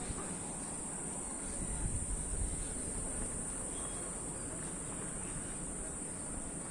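Steady, high-pitched insect chorus, an unbroken trill that holds level throughout, over a low rumbling noise.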